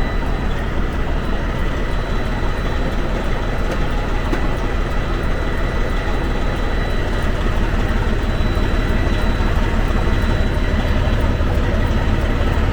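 Diesel semi-truck engine idling steadily, running a little louder in the second half.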